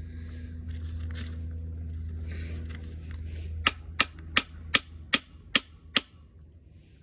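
Seven sharp metallic taps about halfway in, roughly two and a half a second, each with a brief ring, like a hammer tapping on a metal engine part. A steady low hum runs underneath.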